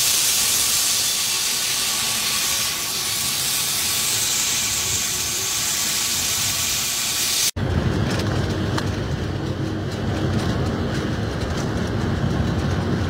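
Moving train heard from the cab. First a loud, steady rushing hiss of air past the train, then, after an abrupt cut about seven and a half seconds in, the low steady rumble of the diesel locomotive running along the track.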